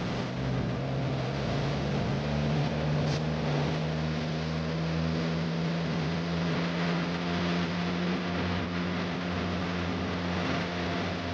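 A vehicle engine running steadily at low revs, with a constant low hum.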